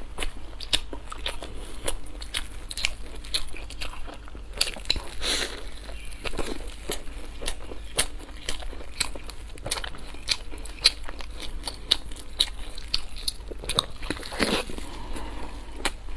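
Close-up mouth sounds of someone chewing a crispy fried pancake: a dense run of sharp crunches and crackles with wet chewing, and a couple of longer rustling crunches about five seconds in and near the end.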